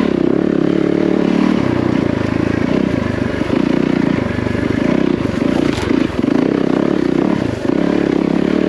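Yamaha WR450F dirt bike's single-cylinder four-stroke engine running under load as it is ridden along a track. The throttle eases off and comes back on a few times.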